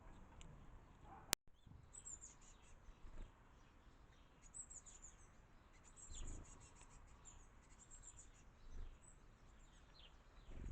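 Small garden birds chirping, faint: many quick high chirps with a few falling whistled notes. A sharp click and a brief dropout come about a second in, before the chirping starts.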